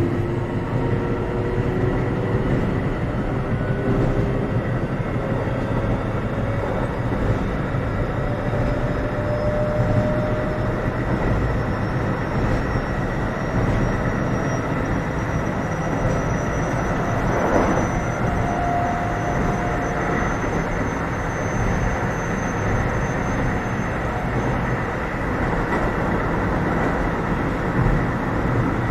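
Keio 7000 series electric train running, heard from inside the car: a steady rumble of wheels on track, with motor tones slowly rising in pitch as the train gathers speed. There is a single brief knock about two-thirds of the way through.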